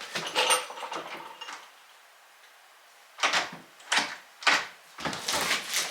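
Entry-door lock hardware being worked while the deadbolt strike plate is adjusted. First a run of clicks and scrapes, then a pause of about a second and a half, then four or five sharp clacks in quick succession.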